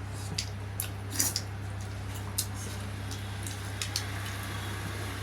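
Mukbang eating sounds: several short wet smacks and clicks of chewing and mouth noise, scattered through, over a steady low hum.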